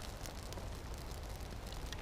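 Small kindling fire of birch bark and twigs crackling faintly with a few scattered pops, over a steady low rumble.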